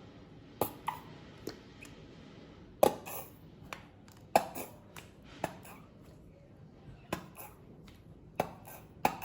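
A spoon clinking and knocking against a mixing bowl as mayonnaise is scooped in for ranch dressing: a dozen or so sharp, irregular taps with short pauses between them.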